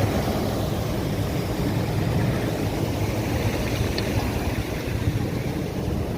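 Water rushing over a small irrigation check dam (anicut), a steady low rumble.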